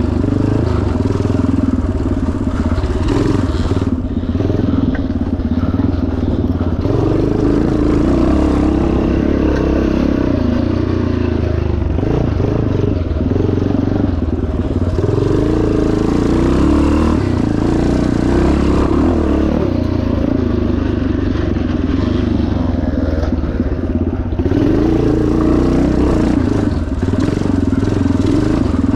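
1977 Yamaha TT500's single-cylinder four-stroke engine running hard, the throttle opening and closing every few seconds as the bike is ridden off-road.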